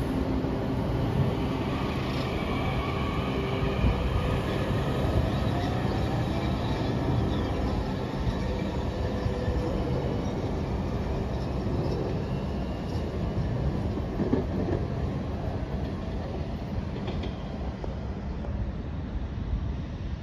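A train rolling past on steel rails: a steady rumble with wheel clatter and faint gliding wheel squeals around the middle, easing off slightly near the end.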